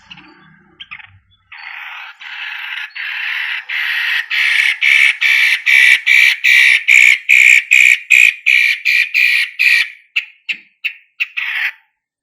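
Long-tailed shrike (cendet) calling a rapid series of harsh, rasping notes, about three or four a second, getting louder over the first few seconds and breaking into a few scattered notes near the end.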